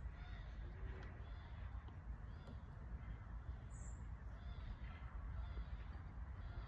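Wild birds calling: a short call repeated about once a second, with a dove-like coo near the start, over a steady low rumble.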